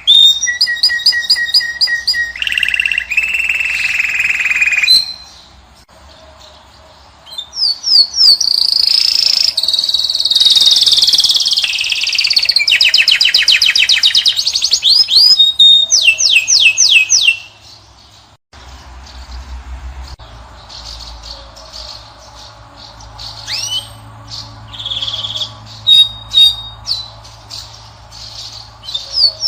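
European goldfinch and canary singing: loud phrases of twittering notes and fast rattling trills, with a short pause about six seconds in. From about eighteen seconds in the song is quieter, with scattered chirps over a low hum.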